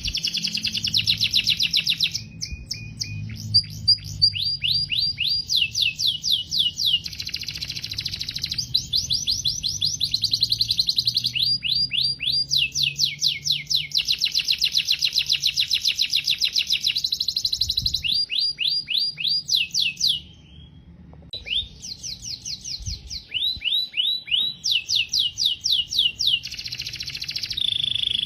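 Canary singing: long runs of rapid repeated trilled notes, the tours changing every second or two, with a brief pause about twenty seconds in.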